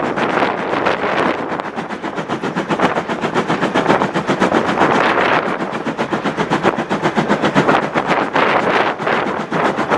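Steam locomotive working hard, its exhaust beats coming in rapid, even succession as it runs at speed.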